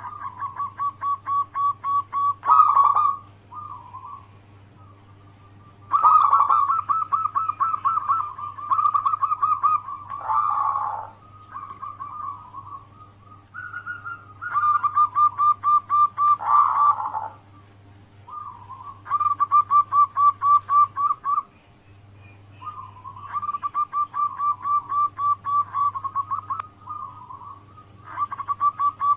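Zebra dove (perkutut) cooing: phrase after phrase of rapid, evenly pulsed coos, each a few seconds long with short pauses between, several ending in a lower, rougher note. A steady low hum runs underneath.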